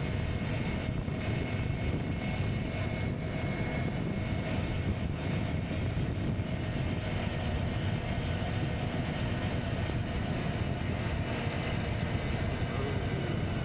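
KTM Duke 125's single-cylinder engine running at a steady pace while the bike is ridden, its exhaust note mixed with road noise, with no revving up or down.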